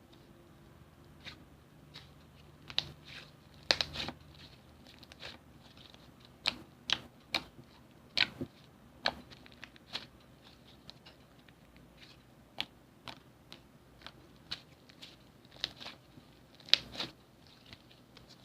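Slime being handled, making irregular sharp pops and clicks, some single and some in quick clusters.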